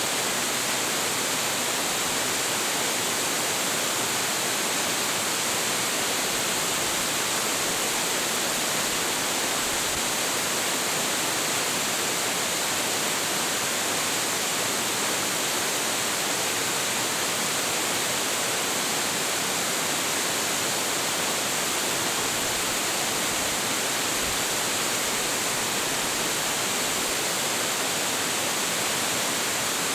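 A large waterfall crashing into its pool: a dense, steady roar of falling water with no change in level.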